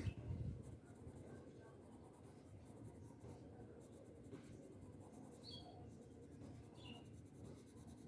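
Faint scratching of colouring strokes on paper as purple colour is shaded into a bird drawing, with a brief louder rustle at the start.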